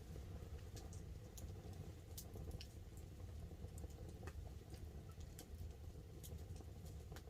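Wood campfire burning with scattered sharp crackles and pops at an irregular rate, over a steady faint patter of light rain on a tarp.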